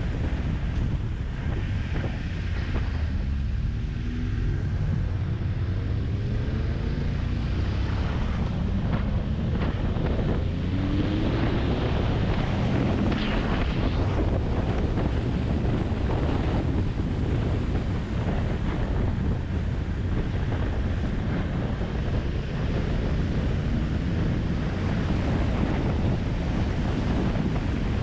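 Wind buffeting the microphone of a riding motorcycle, with the engine faintly heard underneath it; the engine note rises a few seconds in and again around ten seconds in as it revs.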